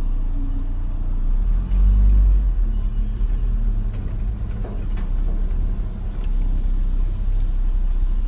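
Car engine and road rumble heard from inside the cabin as the vehicle moves forward, a steady low drone that swells louder for a moment about two seconds in.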